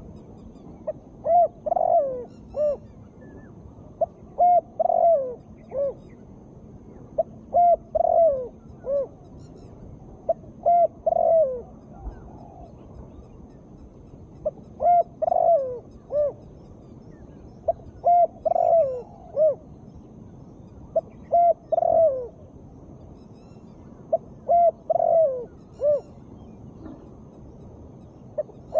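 Spotted dove (tekukur) cooing, the call the title gives as a female's. It repeats a short phrase of three or four low hooting notes, the last one sliding down in pitch, about every three to four seconds.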